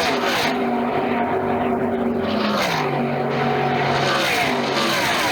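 NASCAR Truck Series race trucks' V8 engines running flat out past the grandstand, with a steady drone from the pack. Their pitch drops as trucks go by, once near the start and again about two and a half seconds in.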